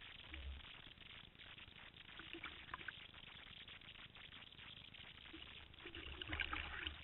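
Water splashing and lapping, with a few brief louder splashes about two to three seconds in and a busier stretch near the end, over low rumbles.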